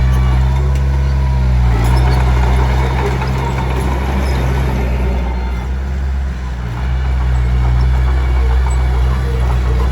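Komatsu D21P small bulldozer's diesel engine running steadily under working load, its note shifting about two seconds in and dipping briefly past the middle. A rough scraping and rattling of tracks and pushed stone runs over most of it.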